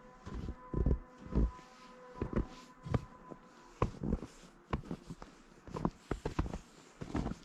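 Footsteps crunching through fresh snow on a woodland trail at a steady walking pace. A faint steady hum lies under the first half of the steps.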